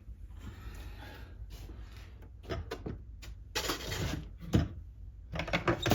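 Knocks, rubbing and short clatters of an egg incubator being handled and opened, sparse at first and louder in the last couple of seconds.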